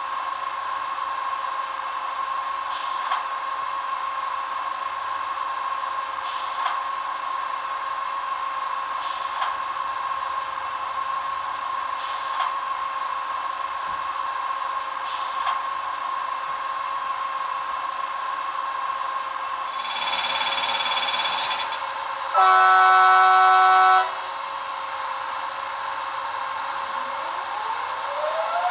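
Digitools Digisound 3.1 sound decoder in a model MÁV V63 electric locomotive playing its locomotive sounds through a small speaker: a steady hum with faint clicks about every three seconds, a short tonal buzz about twenty seconds in, then a loud horn blast lasting about a second and a half. Near the end a rising whine starts.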